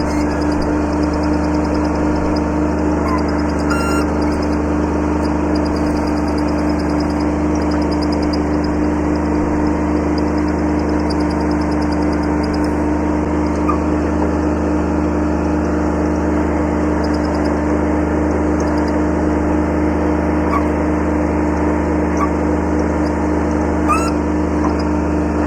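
Kubota B7100's small three-cylinder diesel engine running at a steady speed, with a constant low drone and no revving. A few faint short chirps sound over it.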